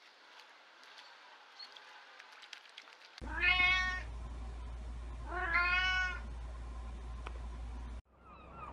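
A kitten meowing twice, each meow under a second long and about two seconds apart, over a low steady hum.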